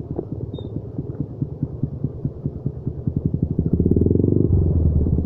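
Trail motorcycle engine running at low revs in quick, even pulses, revving up louder about four seconds in and then easing off, as the bike works through a difficult stretch of trail.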